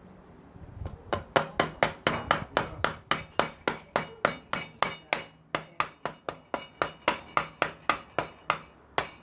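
Steady hammering on metal: about four sharp, ringing blows a second, starting about a second in and going on until just before the end.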